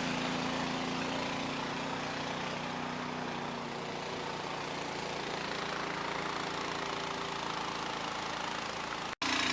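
An engine running steadily at a constant idle-like speed, with a brief break near the end.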